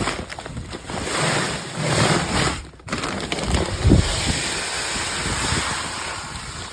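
Granular lime pouring from a bag into a fertilizer spreader's hopper: a steady rushing hiss that breaks off briefly about three seconds in.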